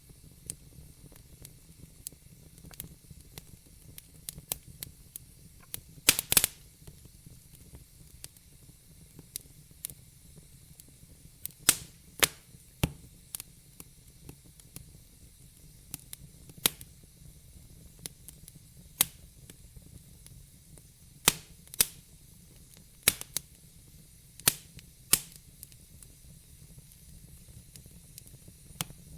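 Fire in a fireplace crackling: irregular sharp pops and snaps, some much louder than others and a few coming in quick clusters, over a soft steady hiss.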